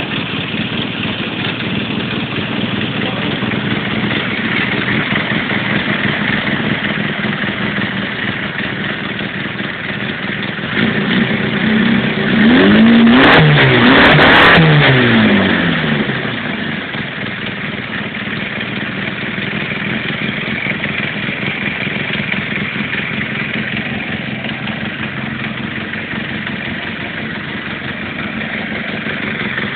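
Austin Mini's BMC A-series four-cylinder engine running on an engine stand, idling steadily. About halfway through it is revved twice by hand at the carburettor, rising and dropping back to idle.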